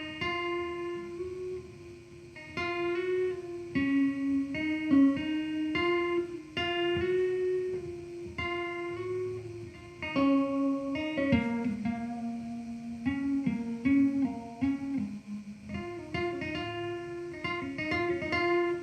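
Guitar music: a melody of plucked notes, each starting sharply and dying away, moving up and down in pitch.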